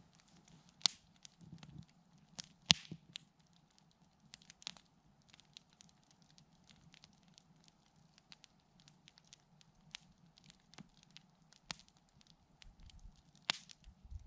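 Wood campfire crackling, with irregular sharp pops, the loudest about a second in, near three seconds in and near the end, over a faint steady low hum.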